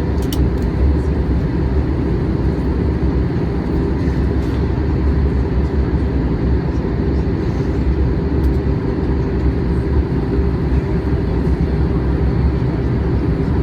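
Steady cabin noise inside a Boeing 737-800 during descent: engine and airflow noise heavy in the low end, with a faint steady hum and a small click just after the start.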